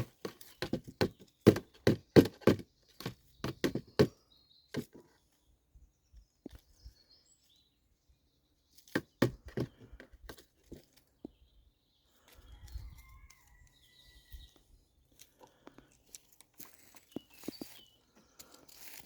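Bursts of irregular sharp cracks and crunches: a dense run over the first four seconds or so and another about nine seconds in, with a few scattered ticks after and a faint thin whistle about halfway through.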